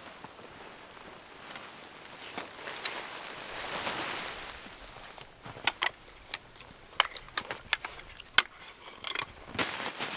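A soft rushing swell that rises and falls about four seconds in, followed by a quick, irregular run of sharp clicks and knocks.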